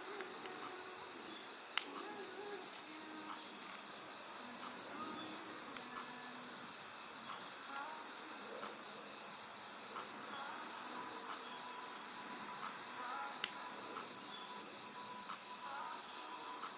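Crickets and other night insects calling in a steady, high-pitched chorus, with a regularly pulsed chirp running through it. A wood fire gives two sharp pops, about two seconds in and near the end.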